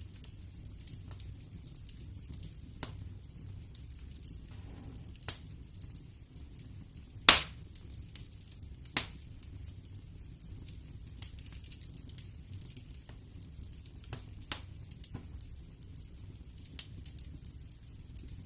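Wood fire burning in a fireplace, with a low steady rumble and irregular sharp crackles and pops; the loudest pop comes about seven seconds in.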